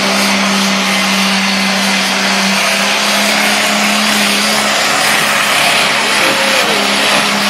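Pulling tractor's engine running loud at high, steady revs under load during a tractor pull.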